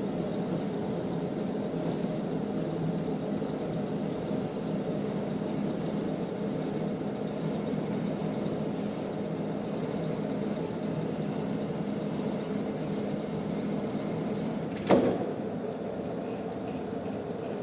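Manual metal lathe running steadily with a high hiss over its drive hum. About fifteen seconds in there is one sharp clunk, and the high hiss stops while the lower running noise carries on.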